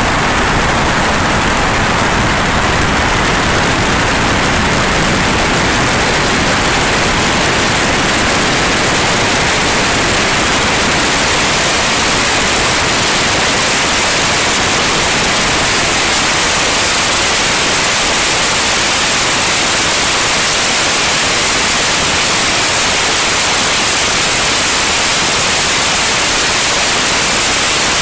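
Steady, loud rushing noise inside a small airplane's cabin in flight, with engine, propeller and airflow blended into an even hiss without distinct tones.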